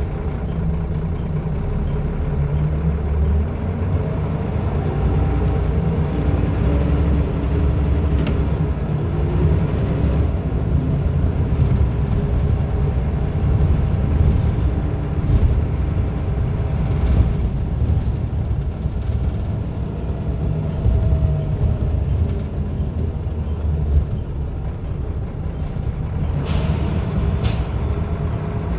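Scania L94UB bus's diesel engine running steadily, its pitch shifting through the ZF automatic gearbox. A short, sharp hiss of air from the air brakes comes near the end.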